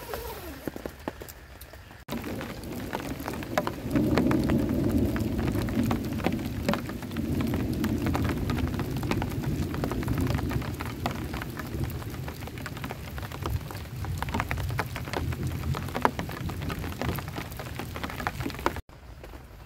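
Heavy rain with many close drop impacts, and a long low rumble of thunder from about four seconds in to about ten seconds. The rain comes in abruptly about two seconds in and cuts off suddenly near the end.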